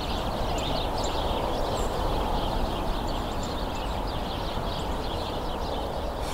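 A large flock of small birds hidden in a thicket, chattering all at once: many short overlapping chirps, over a steady low background hum.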